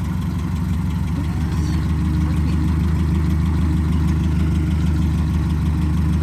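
Tractor engine running steadily while the tractor moves slowly in first gear, getting a little louder about two seconds in.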